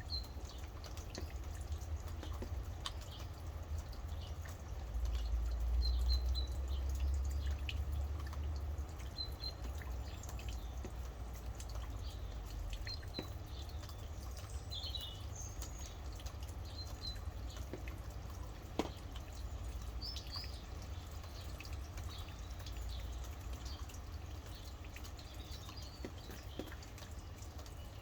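Rain falling and dripping in many small scattered drops, with birds giving short high chirps now and then. A low rumble runs underneath and swells for a few seconds starting about five seconds in.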